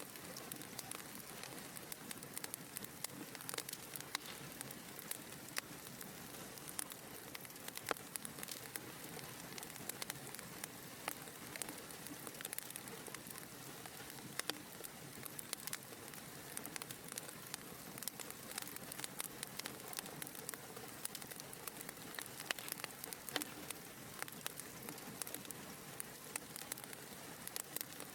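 Fire crackling in a fireplace: a soft steady hiss of flames with frequent small, irregular pops and snaps.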